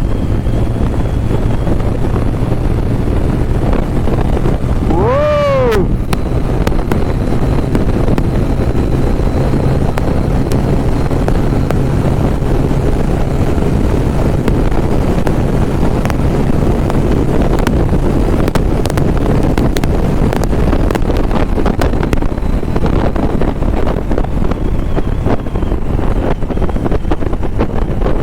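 TVS Apache RTR 160's single-cylinder engine running steadily at speed, close to 100 km/h, under heavy wind noise on the microphone. About five seconds in, a short tone rises and falls in pitch.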